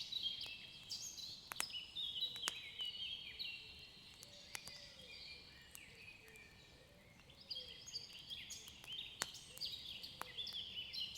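Quiet ambient birdsong: many short chirping phrases that step down in pitch, easing off about halfway through and picking up again. Occasional sharp crackles, like a wood fire, sound over them.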